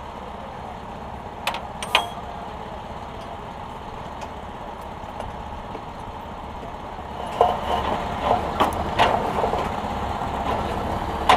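Late model stock car engines running as a steady low drone, with a few sharp clicks or knocks about one and a half and two seconds in and a cluster of them from about seven seconds on.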